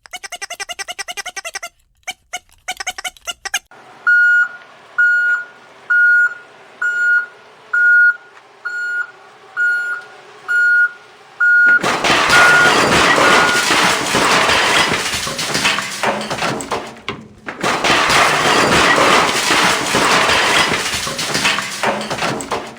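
Short electronic beeps at one steady pitch, about one a second, like a vehicle's reversing alarm, followed about halfway through by a loud harsh rushing noise that breaks off briefly once and resumes.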